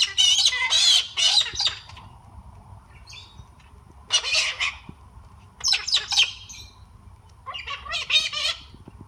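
Pet parrots squawking back and forth: a long run of loud, harsh calls in the first two seconds, then three shorter squawks about two seconds apart.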